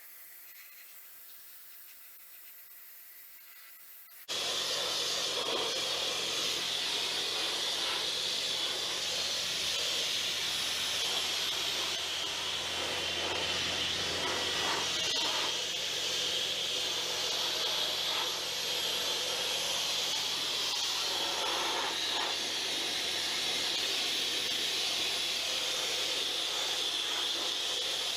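Sandblasting nozzle blasting a steel truck frame: a loud, steady hiss of air and abrasive that starts suddenly about four seconds in, over a steady low hum.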